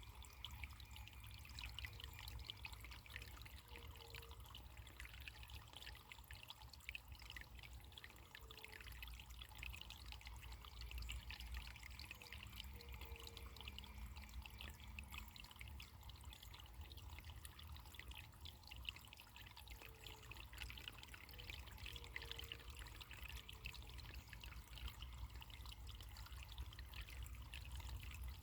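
Faint running water trickling and splashing steadily over a low rumble, with a few short, soft low notes here and there.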